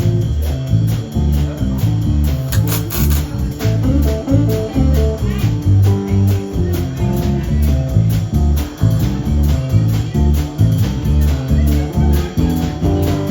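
Live blues band music: guitar over a walking bass line and a steady drum beat.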